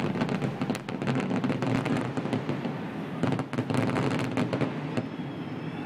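Fireworks crackling: a dense run of rapid pops and crackles from bursting shells, with louder clusters about a second in and again past three seconds.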